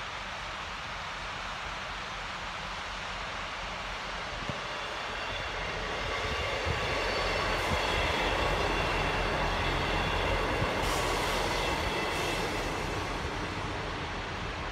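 EMR Regional diesel multiple unit passing along the line. Its rumble and wheel noise build about five seconds in, are loudest for several seconds, then fade as it moves away.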